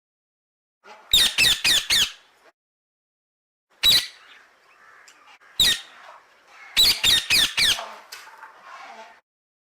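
Parrot giving harsh, screeching squawks in short runs: four quick squawks about a second in, single ones near the middle, then another run of four, with fainter chatter between.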